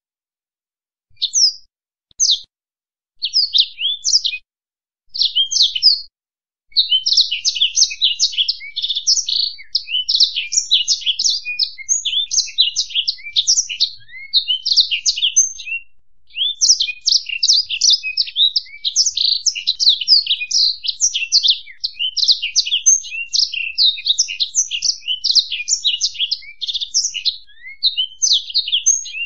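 A finch singing: a few short twittering phrases, then from about seven seconds in a fast, continuous high-pitched twittering song with a clean background.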